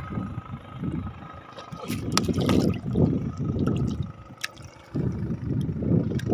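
Water splashing and sloshing in irregular surges around a fishing boat on the river, strongest in two spells.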